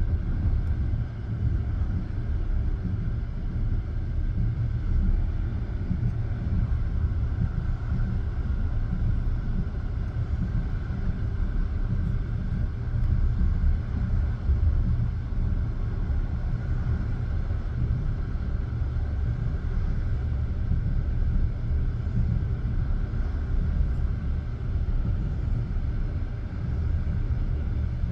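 Passenger train running steadily between stations: a continuous low rumble of wheels on the rails and carriage running gear.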